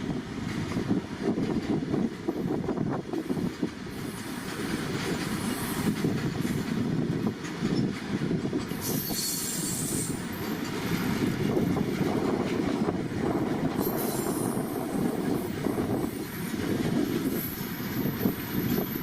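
Goods train's wagons rolling past, wheels clattering over the rails, with a high-pitched wheel squeal about nine seconds in and again near the end.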